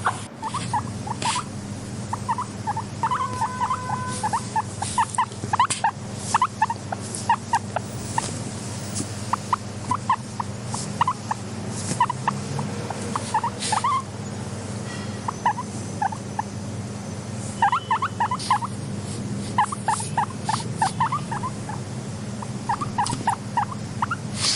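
Guinea pigs making short, quick calls in runs of several at a time, with scattered sharp clicks and a steady low hum underneath.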